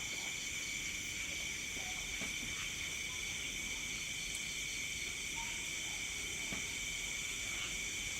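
Night-time insect chorus: crickets and other insects trilling steadily in several high-pitched layers, one of them pulsing rapidly.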